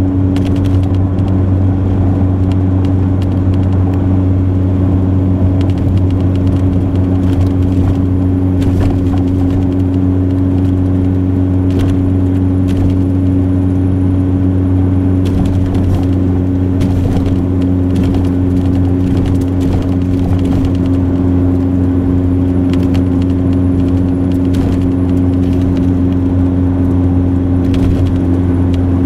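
Steady low drone of a 1999 Ford Ranger pickup heard from inside the cab as it drives through snow drifts, with scattered clicks and knocks through it.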